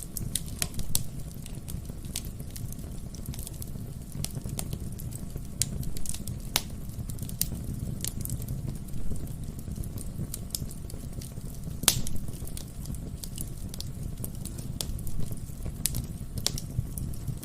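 Wood fire burning in a fireplace: a steady low rumble of the flames with irregular sharp crackles and pops from the burning logs, one louder pop about twelve seconds in.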